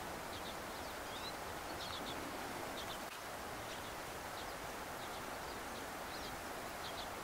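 Woodland ambience: a steady background hiss with small birds giving short, high chirps every second or so.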